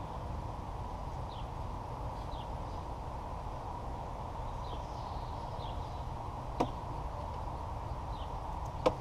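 Two sharp clicks about two seconds apart as a flathead screwdriver pries a plastic push-rivet clip out of a motorcycle's fairing: the rivet head popped, then the clip levered out. Underneath is a steady background hiss with faint high chirps about once a second.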